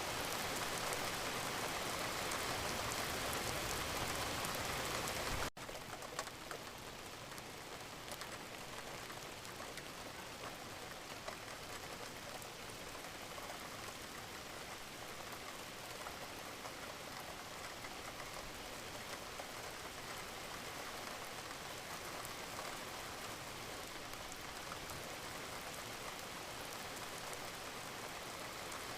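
Wood fire crackling in a fireplace: a steady hiss with scattered small pops and snaps. About five seconds in, the sound cuts abruptly to a quieter level and carries on.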